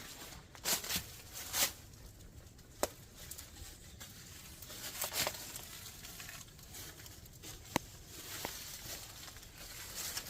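A hiker's irregular footsteps over a dry, rocky creek bed, with a few sharp clicks among them.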